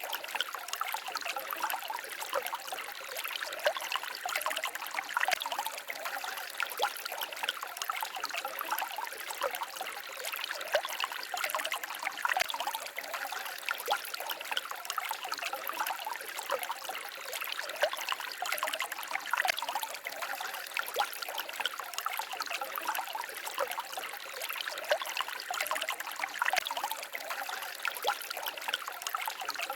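Small forest stream babbling and trickling over stones, a steady splashy flow with no break.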